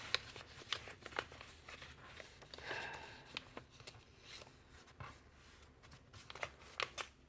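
Faint rustling and crinkling of a sheet of paper being folded and creased by hand, with scattered soft ticks and a longer rustle about three seconds in.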